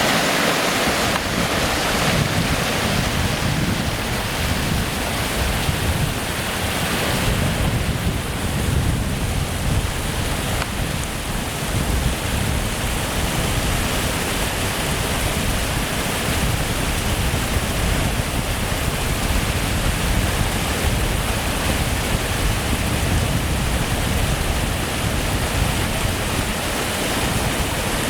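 Waterfall crashing steadily: a continuous rushing of falling water with a deep rumble underneath.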